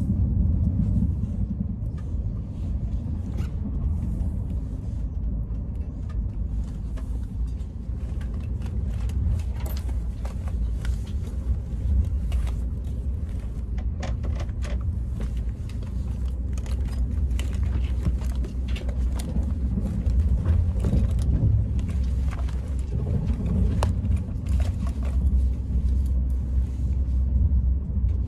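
Steady low rumble of a moving train heard from inside the carriage. Over it come many small clicks and rustles from hands handling a knitted bag close to the microphone.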